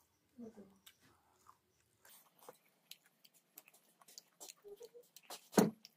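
A person chewing a meal of rice and noodles eaten by hand, with faint scattered clicks, and one louder thump shortly before the end.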